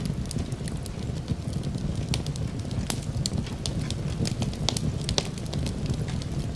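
Fireplace crackling: irregular sharp pops and snaps, several a second, over a steady low rumble of burning logs.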